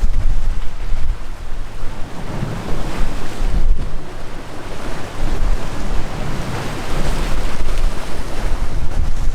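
Sea waves rushing with strong wind buffeting the microphone, making a heavy, gusting rumble.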